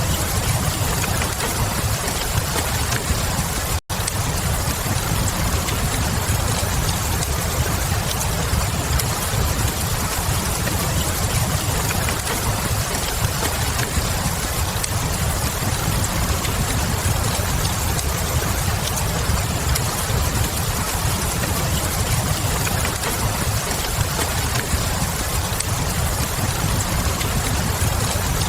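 Steady rain with a deep low rumble and the crackle of a wood fire in a fireplace. The sound cuts out for an instant about four seconds in.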